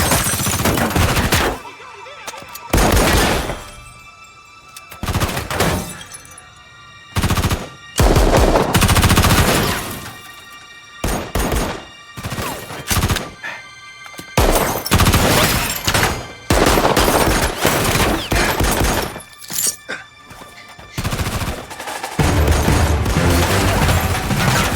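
Action film score with sustained tones, under repeated loud bursts of gunfire that come at irregular intervals. Near the end the music thickens into a steady, heavy low layer.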